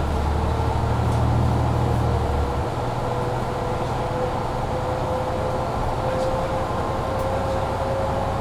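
Mercedes-Benz Citaro C2 G articulated bus accelerating, heard from inside the cabin over a loud heater blower. The diesel engine's low drone drops back suddenly about two and a half seconds in as the Voith automatic gearbox shifts up, while a whine climbs slowly in pitch with road speed.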